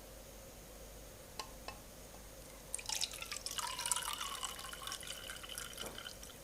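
Water poured from a plastic bottle into a small USB humidifier's water tank for about three seconds, starting near the middle, a splashing gurgle with a pitched ring as the tank fills. Two light clicks come before it.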